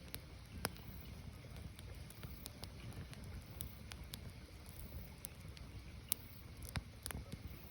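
Firewood burning: a steady low rustle of flames with sharp pops and crackles at irregular intervals, one clear pop just over half a second in and a cluster of several more near the end.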